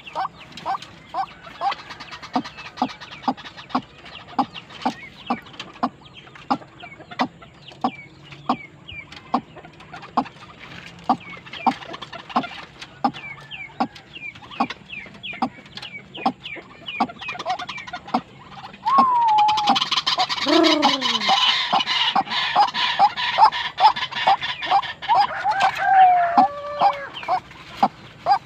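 White-breasted waterhen calling: a steady series of short clucking notes, about two a second. About two-thirds through, a louder, harsh calling joins with falling croaks.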